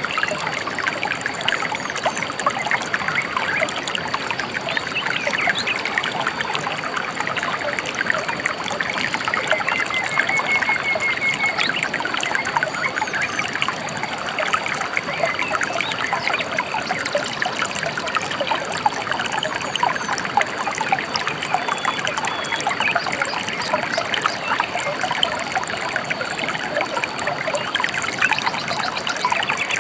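A small river or stream trickling and flowing steadily. A bird gives a brief, rapid trill about ten seconds in.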